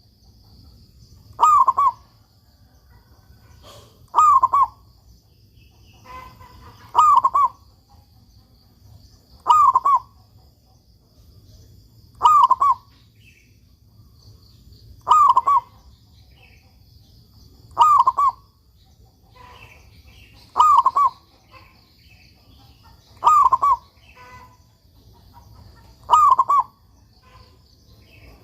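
Zebra dove (perkutut) singing its cooing phrase over and over, ten short phrases evenly spaced about every two and a half to three seconds.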